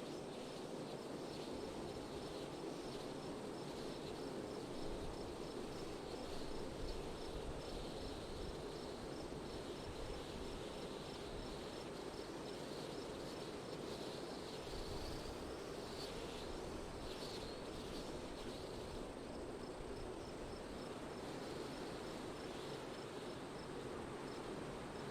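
Steady wind noise, with a cricket chirping in a quick, even rhythm high above it.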